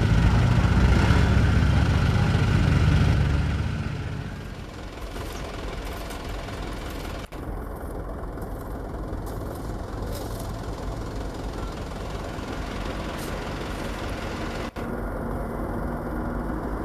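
A loaded truck's engine working hard up a steep sandy incline, loud for the first few seconds. It then falls away to a quieter, steady engine rumble, with two very brief dropouts in the sound.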